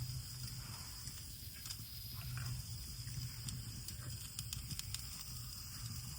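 Campfire crackling with scattered small pops, over a steady high chirring of insects in the night forest.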